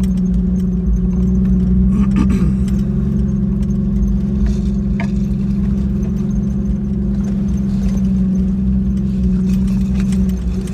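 Jeep Wrangler YJ engine running steadily while driving, with light rattles and clicks from the vehicle.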